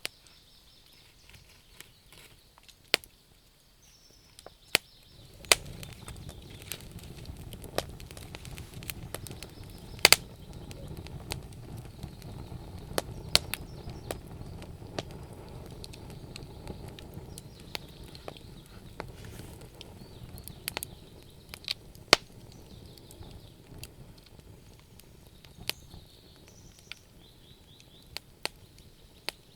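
Wood fire crackling, with irregular sharp pops from the burning wood. A low rushing sound sets in about five seconds in and continues under the pops.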